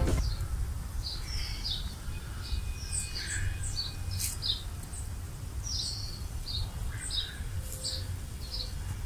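Small birds chirping in short, high notes, scattered irregularly throughout, over a steady low background rumble.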